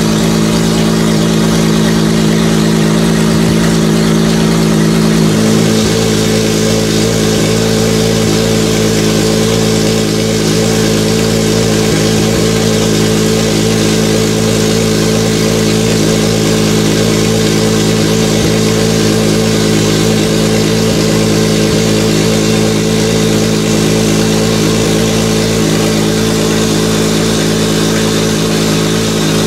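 Ferrari 599XX Evoluzione's naturally aspirated 6.0-litre V12 idling steadily, a low, even drone with no revs; its low note shifts slightly about five seconds in.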